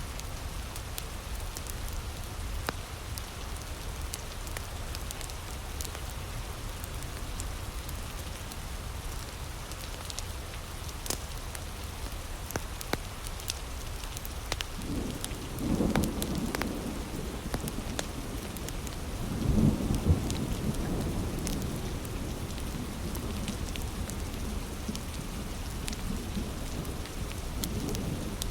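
Steady heavy rain with scattered sharp crackles from a wood fire. Two low rumbles of thunder swell up about halfway through and again a few seconds later.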